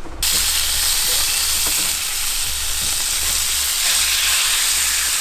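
Food sizzling in a hot frying pan, a steady frying hiss that starts suddenly just after the start.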